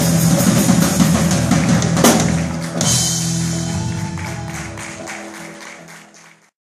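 Band music with drum kit and guitar ending: a final hit about two seconds in, then a held chord and ringing cymbal that fade out and stop just before the end.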